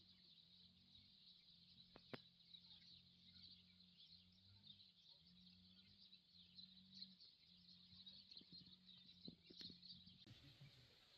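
Near silence: faint outdoor ambience with a steady high-pitched hiss and a low hum, changing abruptly about ten seconds in.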